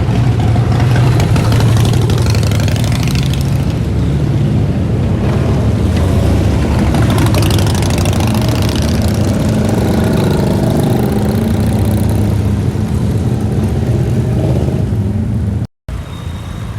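A car engine and exhaust running loudly close by, with its pitch gliding up and down near the middle; it cuts off suddenly near the end.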